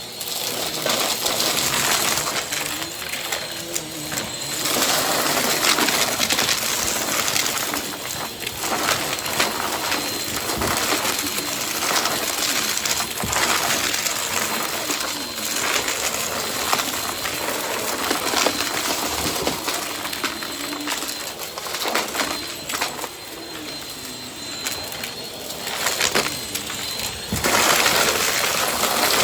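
Upright vacuum cleaner running, pushed quickly back and forth over carpet so its rushing noise swells and fades every second or two, with a faint steady high motor whine.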